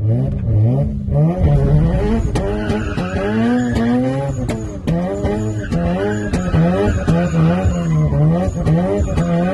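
High-powered turbocharged car engine revving hard in quick repeated swells, its pitch climbing and dropping over a dozen times, with a few sharp cracks among the revs.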